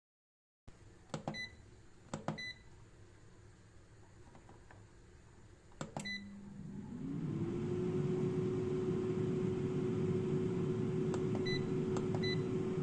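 Xiaomi Mi Smart Air Fryer being set and started: short beeps from its control panel, a click about six seconds in, then its fan spinning up, rising in pitch and settling into a steady hum with a rush of air. Two more short beeps come near the end.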